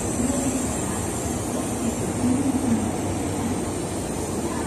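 N700-series Shinkansen train pulling away from the station platform: a steady running noise with a low hum that wavers in pitch.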